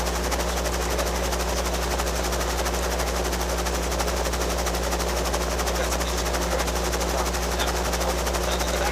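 Robinson R22 helicopter running steadily, its piston engine and rotors making an unbroken drone with steady low hum tones and a fast, even beat.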